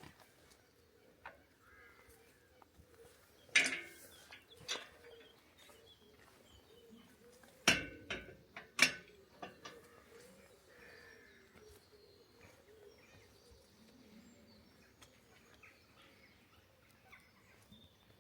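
Faint birdsong chirping in the background, broken by a handful of loud, short, sharp sounds: two about four seconds in and three more around eight to nine seconds in.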